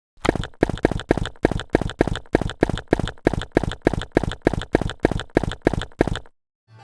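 A rapid, very even series of sharp knocks, about four a second, that starts abruptly and stops suddenly after about six seconds.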